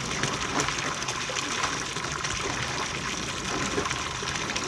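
Running river water, a steady rushing gush.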